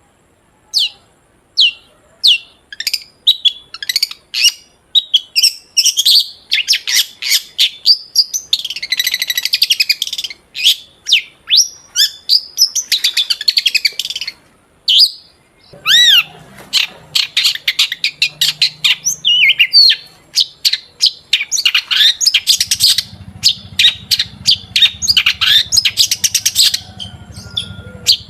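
Long-tailed shrike (cendet) singing: spaced sharp chips that quickly build into fast, dense chattering phrases and trills, loud and continuous.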